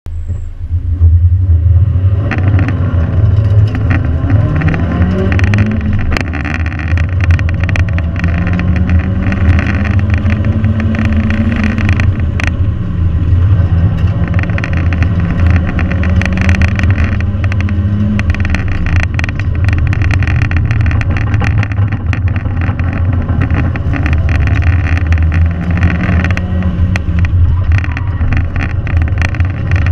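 2001 Mazda Miata's 1.8-litre four-cylinder engine pulling hard through an autocross run, heard from inside the open-top cockpit. Its pitch climbs, holds and drops again several times as the driver accelerates and lifts between cones.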